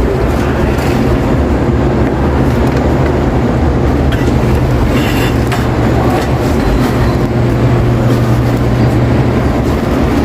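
Supermarket ambience in the chilled-goods and butcher section: a steady low hum under a continuous wash of indistinct background noise, with a brief brighter sound about five seconds in.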